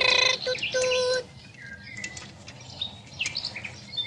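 Birds chirping and twittering. In the first second or so a loud steady pitched tone sounds twice, then only the short chirps remain.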